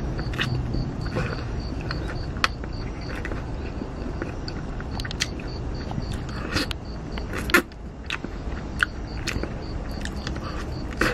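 Close-up eating of a yangnyeom (sweet-spicy sauced Korean fried chicken) wing: bites and chewing with irregular sharp clicks and smacks, the strongest about two and a half, seven and a half and nine seconds in. Behind it an insect chirps steadily a few times a second over a low rumble.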